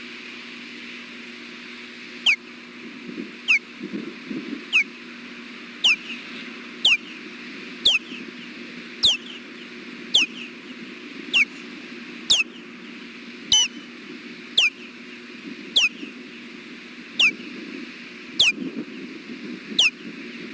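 Osprey giving a string of sharp alert whistles, about one a second, each call dropping quickly in pitch: an adult sounding alert at the nest. Steady wind noise on the microphone runs underneath.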